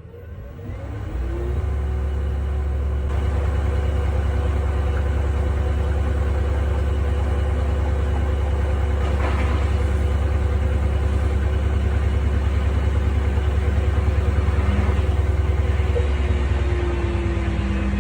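Haier HW90-BP14636 washing machine's drum spinning at high speed on its belt-driven inverter motor: a steady loud rumble with a motor hum and an even pulsing, settling in after the speed has climbed about a second in.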